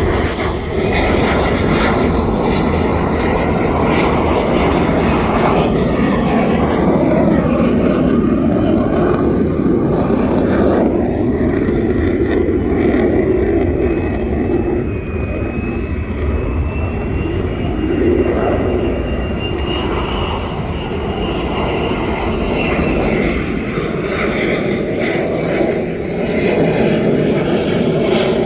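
Fighter jet engines running loud and steady as the jets come in to land, with a thin high whine that rises slightly in pitch from about halfway through.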